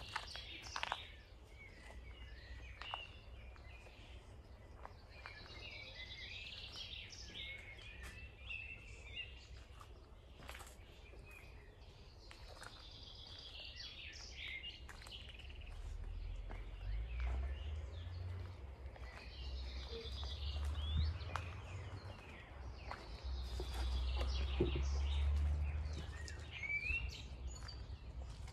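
A songbird singing, repeating a short phrase that falls in pitch about every five to six seconds. Beneath it runs an outdoor background with scattered light clicks and a low rumble that swells in the second half.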